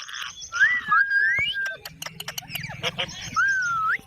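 Pet parrot calling: a few whistled notes that slide up and down in pitch, mixed with harsh screechy calls and a run of short, sharp clicks.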